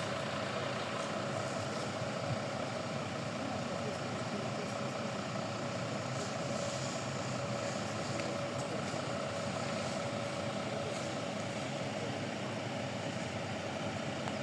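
Steady street traffic noise: vehicle engines running at an even level with a constant hum.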